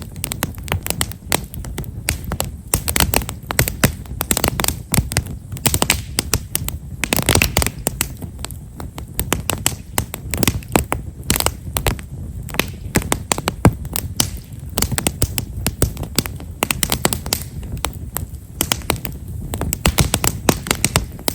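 Wood fire of himeshara (Japanese stewartia) logs burning, with fine, rapid, irregular crackling and snapping over a low fire rumble.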